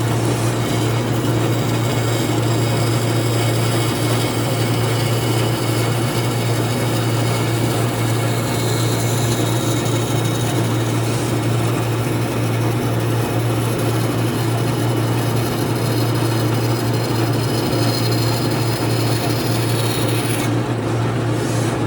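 Electric power tool running steadily on wood, a continuous motor hum with the noise of the work over it.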